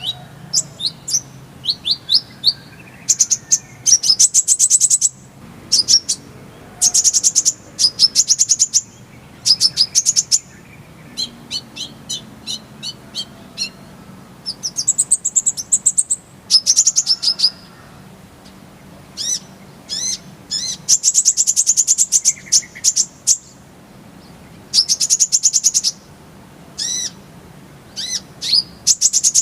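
Kolibri ninja sunbird singing a full, varied song: bursts of very fast, high-pitched note strings and rolling trills, separated by short pauses.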